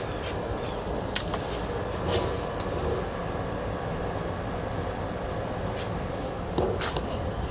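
A few sharp clicks and knocks of ceiling fan parts being handled during disassembly, the loudest about a second in, over a steady background rumble.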